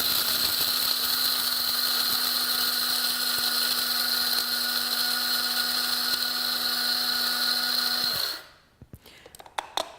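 Cuisinart electric blade coffee grinder running, its stainless steel blade grinding coffee beans with a steady high whine. The motor cuts off about eight seconds in, followed by a few light clicks.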